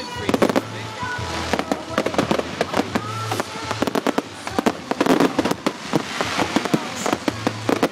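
Fireworks going off in quick succession: many sharp bangs and crackling reports, one after another, with music playing underneath.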